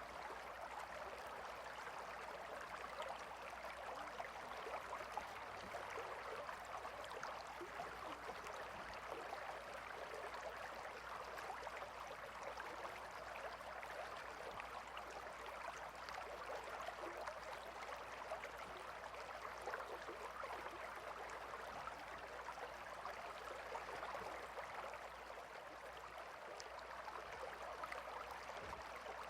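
Gentle river flowing steadily: an even, unbroken wash of running water with a fine bubbling texture.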